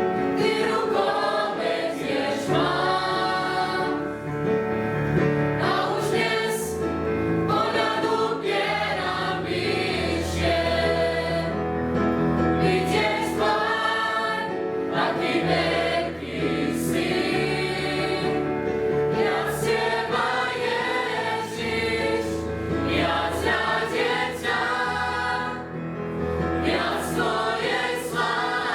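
Youth choir singing a Christian song in Slovak, with voices blending in sustained chords.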